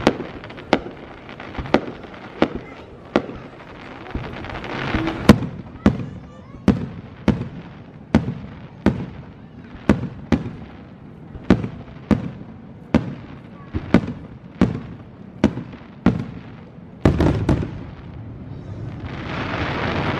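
Fireworks shells bursting in a rapid, regular series, about three sharp bangs every two seconds, with a dense cluster of bursts near the end and a rising rushing noise after it.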